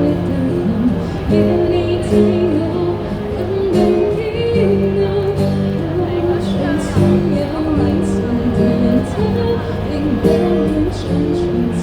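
Live street busking song: a voice singing over instrumental accompaniment that includes guitar.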